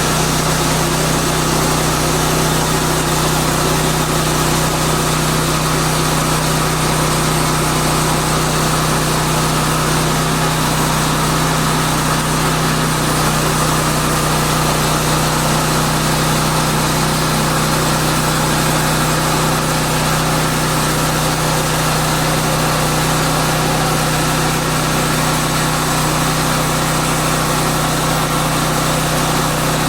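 Woodland Mills portable band sawmill's gas engine running at a steady speed, with an unchanging tone throughout.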